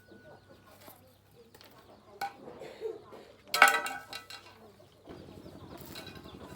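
Metal parts and tools clinking: a few sharp clicks, then one loud ringing metallic clink about three and a half seconds in. About five seconds in, a steady rapid pulsing sound begins.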